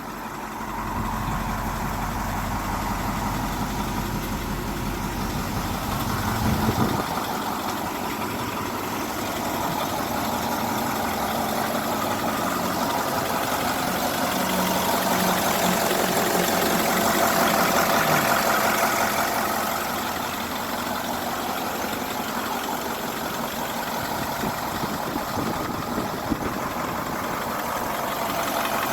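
1987 Ford F800 fire truck's engine idling steadily, growing somewhat louder for a few seconds midway.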